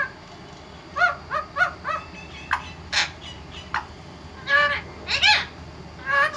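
A pet parrot giving a series of short, pitched squawks and chirps, some in quick clusters of two or three.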